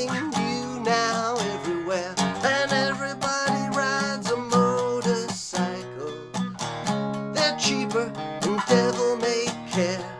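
Acoustic guitar playing an instrumental passage of a heavy-skiffle song: picked melody notes, some bending in pitch, over strummed chords.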